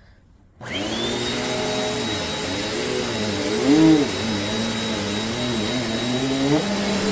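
Amazon Basics upright bagless vacuum cleaner switched on about half a second in, its motor whining up to a steady high note. It is running on a shag rug, where its suction grips so hard that the cleaner won't roll forward, and the lower motor note dips and rises twice as it is worked.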